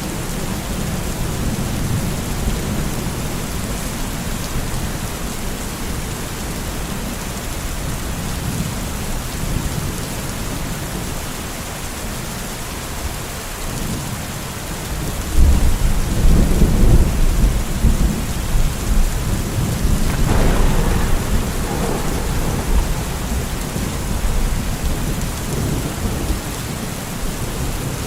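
Steady rain with a thunderclap arriving about halfway through as a sudden low rumble. It rolls on for several seconds with a sharper crackling peal in the middle, then dies back to the rain.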